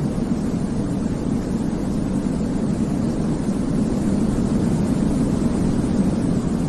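Sleep-aid white noise, steady and unchanging, weighted toward the low end so it sounds like a deep, even rumble more than a bright hiss.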